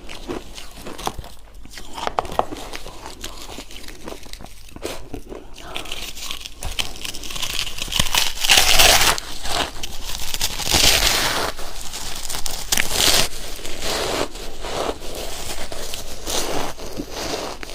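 Shaved ice being crunched and chewed close to the microphone: dense crackling crunches that grow louder about six seconds in.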